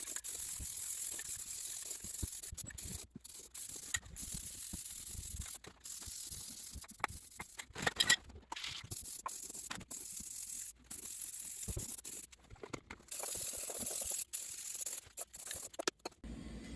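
Aerosol spray paint can hissing in repeated short bursts, with brief pauses between passes and a few sharp clicks about halfway through.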